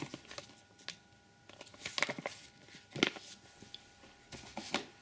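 Cardboard firework cake boxes being handled and set down: scattered soft knocks and rustles, in small clusters about two, three and four and a half seconds in.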